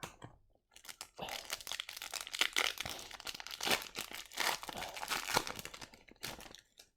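Crinkling and tearing of a hockey card pack wrapper being torn open and peeled off the cards, starting about a second in and stopping just before the end.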